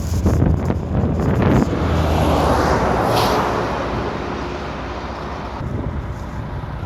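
A vehicle passes on the road, its noise swelling and fading over a few seconds, over a steady low engine hum and wind on the microphone.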